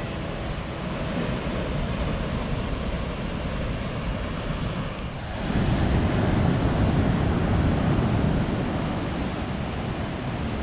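Ocean surf breaking along the shore, with wind on the microphone. A wave surges in about halfway through and the rushing grows louder and deeper.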